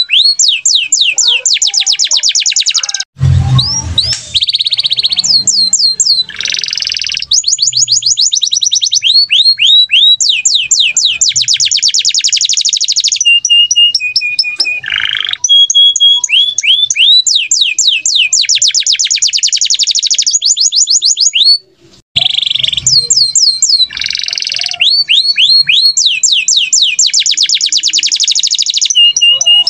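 Cage birds singing loudly: long, fast trills of repeated downward-sweeping high notes in runs of a few seconds, broken by short harsh buzzy bursts. A low thump comes twice, about three seconds in and again past the middle.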